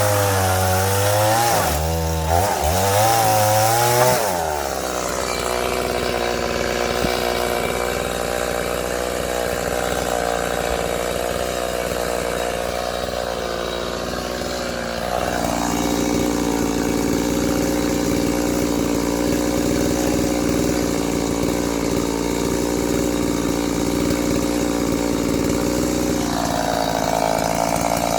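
Chainsaw running while cutting firewood. Its pitch rises and falls for the first few seconds, then holds steady; it gets louder about halfway through and changes again near the end.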